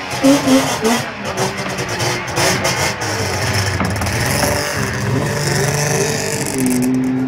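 Classic Saab rally car's two-stroke three-cylinder engine revving as the car pulls away, its note rising and falling.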